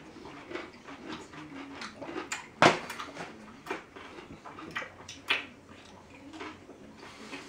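Close mouth noises of people chewing and eating pickles, with scattered short sharp sounds; the two loudest come about two and a half and about five seconds in.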